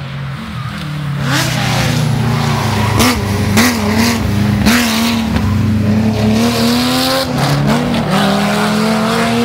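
Rally car engine at full race pace, getting louder as the car approaches, its pitch dipping and jumping back several times in quick throttle blips and gear changes, with sharp cracks from the exhaust. Near the end the engine note rises steadily as the car accelerates hard.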